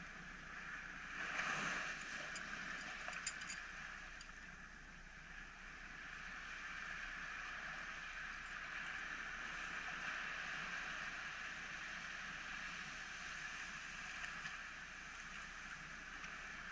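Faint, steady wash of small waves breaking on a rocky beach, muffled through the GoPro's waterproof housing, with a few small clicks about three seconds in.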